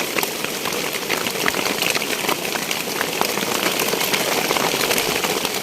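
Heavy rain pouring down: a loud, steady hiss dotted with countless sharp drop hits.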